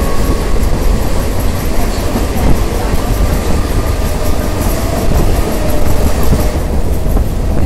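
Mumbai Western Railway suburban electric trains running, with one passing close alongside on the adjacent track: a loud, steady rumble of steel wheels on rails.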